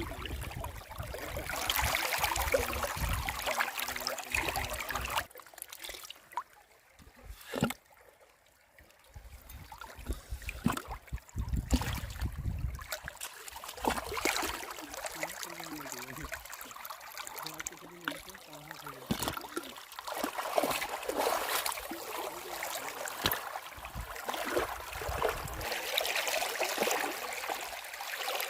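Flowing river water, rising and falling in level, with scattered short clicks and knocks; it drops away almost to nothing for a moment about eight seconds in.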